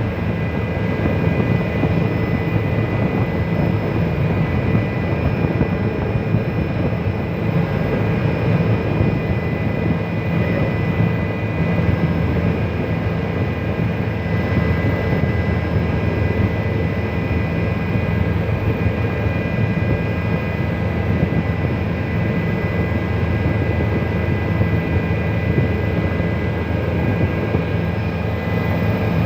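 Helicopter in flight: a steady low engine and rotor drone with a constant high whine over it.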